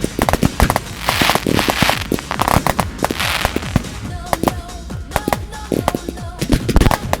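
Professional fireworks display: a rapid string of sharp bangs from bursting shells, with two stretches of hissing crackle, about a second in and again around three seconds in.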